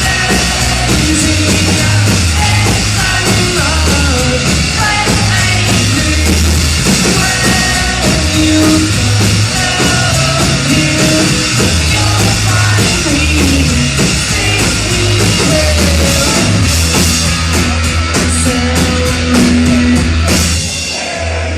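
Loud live rock band playing, with drum kit, bass, electric guitar and a singer. The music drops away about a second before the end.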